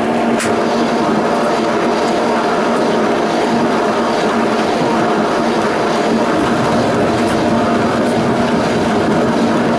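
Tram running along the track, heard from inside: steady rolling noise with a constant low hum, and one sharp click about half a second in.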